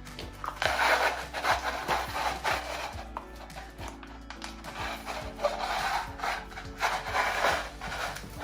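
Irregular rubbing or scraping strokes, about one or two a second, over quiet background music.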